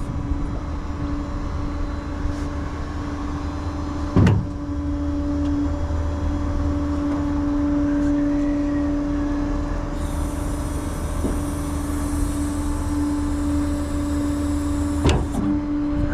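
Tow truck under way, its engine droning steadily as heard inside the cab, with two short knocks, one about four seconds in and one near the end.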